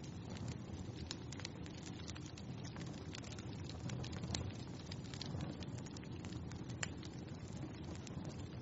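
Wood fire burning in a fireplace, crackling: a steady low rumble under many small, irregular pops and snaps.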